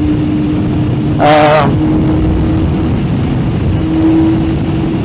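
Yamaha Fazer 600's inline-four engine running at a steady cruising speed, holding one even note, with wind and road rush over the microphone.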